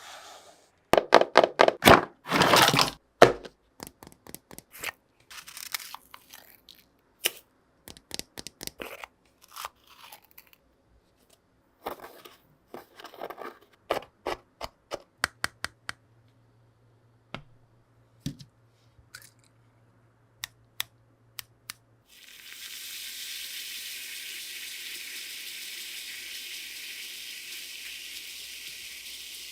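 Handling sounds, a run of crunches, crinkles and clicks as materials are set up, then about two-thirds of the way in a steady fizzing hiss starts: a model volcano's eruption reaction foaming up.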